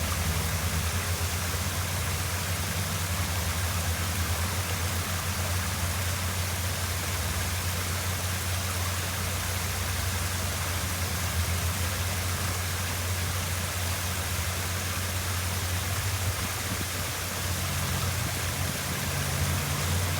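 Waterfall: a steady rush of falling water with a steady low rumble underneath.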